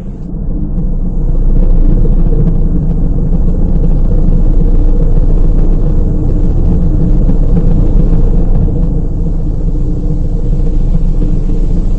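Automatic car wash equipment running: a loud, steady low rumble that builds up over the first two seconds and then holds.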